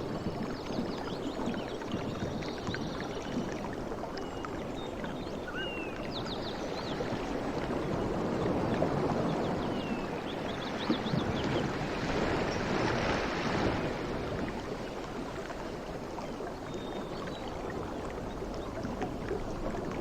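Ocean waves on a shore: a steady rushing surf that swells into one louder wave a little past the middle, with faint high chirps now and then.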